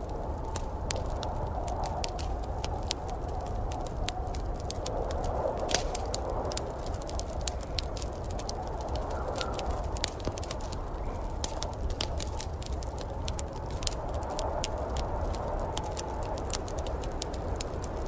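Fire crackling: irregular sharp pops and snaps over a steady low rush of burning.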